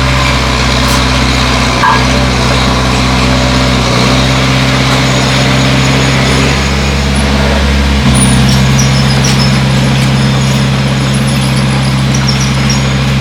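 Bulldozer's diesel engine running steadily under load, its note dipping briefly a couple of times and lifting about eight seconds in, with faint high squeaks in the second half.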